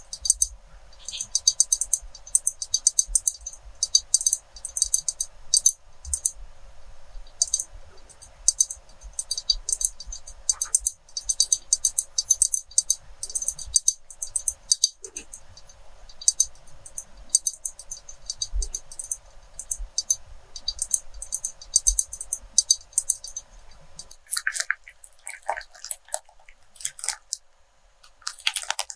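Quick runs of light, crisp tapping and clicking, several taps a second with short pauses between runs. About 24 s in it gives way to softer, lower crackling.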